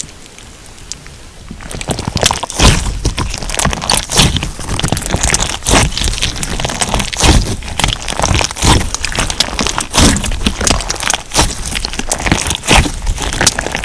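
Crunch slime being squeezed and pressed by hand, giving dense, irregular crackling and popping. It is quieter at first and the crackling starts in earnest about two seconds in.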